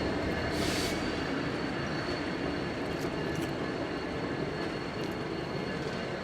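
Freight train rolling along the track, with steady high-pitched wheel squeal. A short hiss comes about half a second in.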